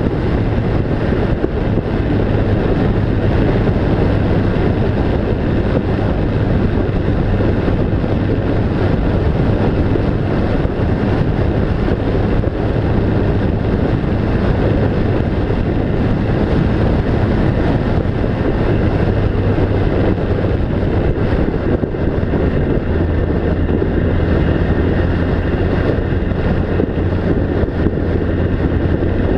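A motor running steadily under a loud rushing noise of wind or travel, its low hum dropping a little in pitch after about 23 seconds.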